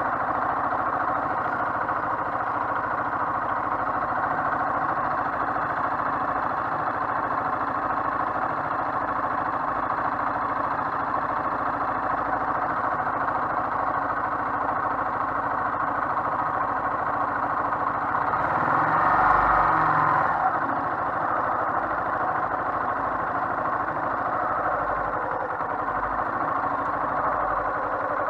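Motorcycle running along the road, heard from on board as a steady engine and wind noise, swelling with a deeper rumble about nineteen seconds in.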